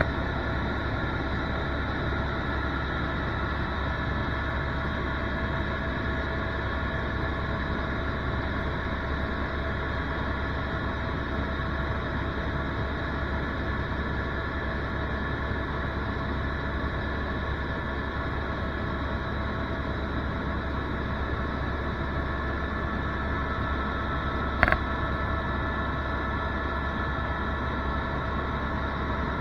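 Helicopter in flight: a steady drone of engine and rotors with a high whine over it. A single short click near the end.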